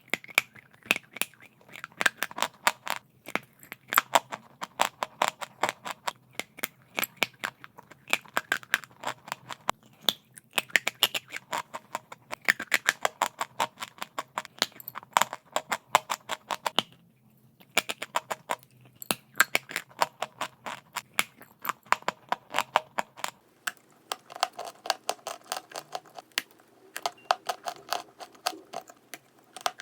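Chalk crunching: runs of sharp, rapid crackles lasting a few seconds each, broken by short pauses.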